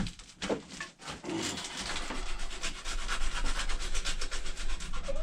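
Sandpaper rubbing on the wooden handle of an axe near its head in quick back-and-forth strokes, starting after a few knocks about a second in.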